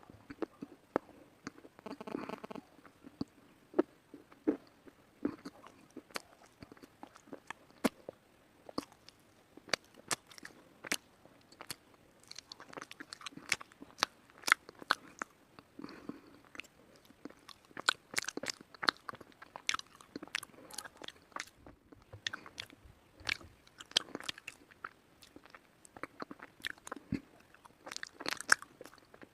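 White slate being bitten and chewed close to the microphone: dense, irregular sharp crunches and clicks as the brittle slate breaks between the teeth.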